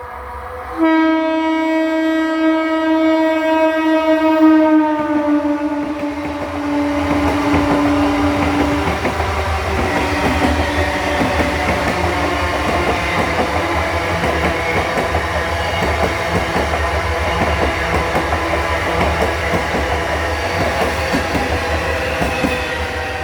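A train passing close by. Its horn sounds one long blast starting about a second in; the horn drops slightly in pitch as the train goes by and fades out after about eight seconds. The rumble and clickety-clack of its wheels on the rails then carry on.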